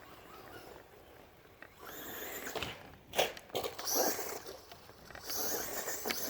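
Traxxas Rustler VXL RC truck running over rough ground: bursts of tyre and dirt noise, with a sharp knock about three seconds in.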